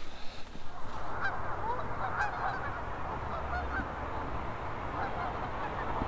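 A flock of geese honking: many overlapping calls in a continuous chorus, starting about a second in.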